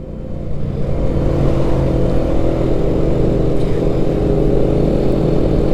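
Benelli BN 125 motorcycle's single-cylinder engine running under way, getting louder over the first second, then holding a steady note.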